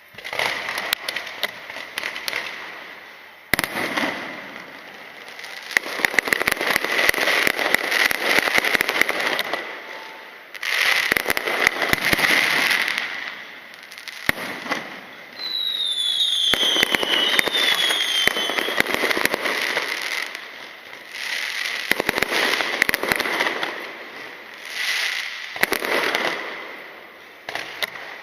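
Aerial fireworks going off in waves of dense crackling bursts, each a few seconds long with short lulls between. A couple of falling whistles sound about sixteen seconds in.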